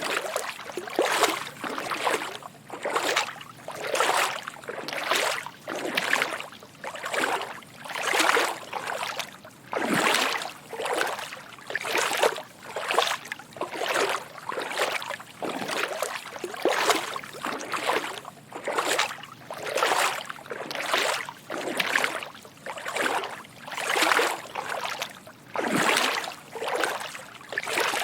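Footsteps wading through shallow water, each step a soft slosh and splash, in an even walking rhythm of about one to two steps a second.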